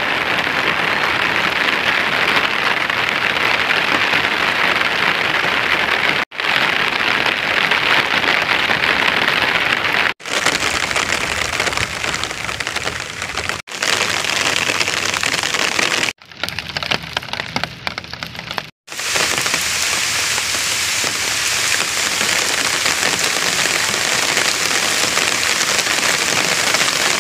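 Heavy rain falling steadily, a dense hiss of drops on water and wet ground. The hiss breaks off briefly five times and is thinner and quieter for a few seconds just past the middle.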